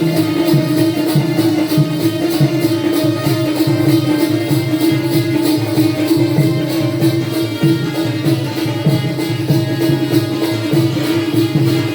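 Instrumental Jakhadi folk music: a steady held note over a brisk drum rhythm, with a fast even ticking on top.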